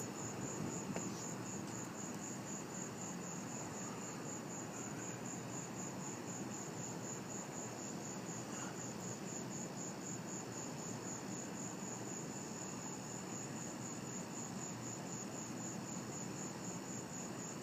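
Night insects chirping steadily: a high, even pulse repeating about two to three times a second, over a faint low background rumble.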